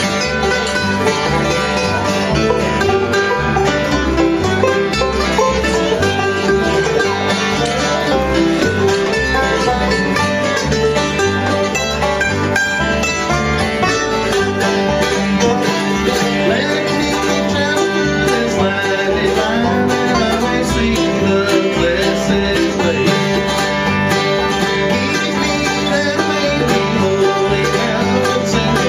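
Live bluegrass band playing an instrumental passage, with banjo and guitar picking over a steady bass line.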